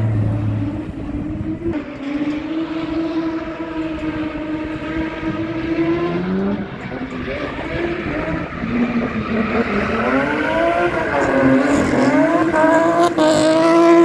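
Drift car engine revving hard, its pitch rising and falling with the throttle, growing louder near the end as a car slides through the corner with spinning, smoking rear tyres.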